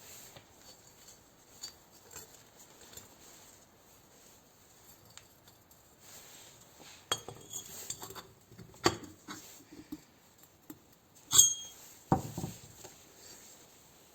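Scattered clinks and knocks of metal tools and engine parts being handled, sparse at first and busier in the second half. The loudest is a sharp ringing metallic clink about two-thirds of the way through, followed by a dull knock.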